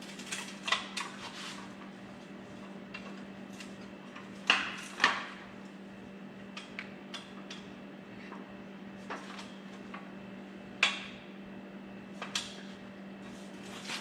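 Folding miter saw stand being folded up: scattered clacks and knocks of its frame and release buttons, the loudest about a third of the way in and again near the end, over a steady low hum.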